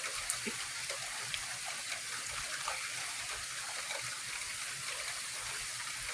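Steady rain falling during a thunderstorm, an even hiss with a few scattered drop ticks.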